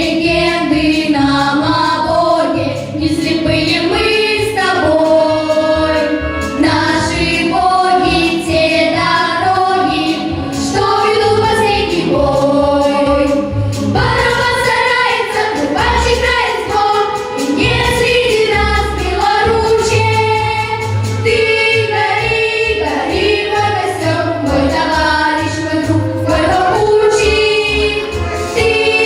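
A group of voices singing a song in unison with instrumental backing.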